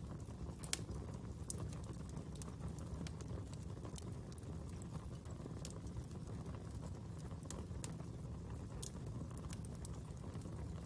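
Fire crackling: a steady low rumble of flame with sharp pops and snaps at irregular intervals.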